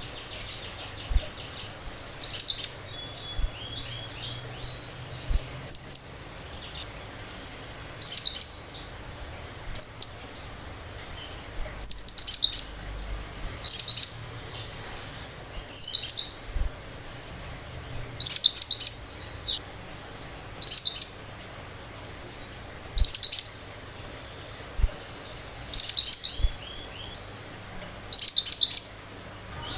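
Cinereous tit (gelatik batu) singing: a dozen or so short, sharp, high-pitched bursts of a few rapid notes, repeated about every two seconds, with fainter chattering in between.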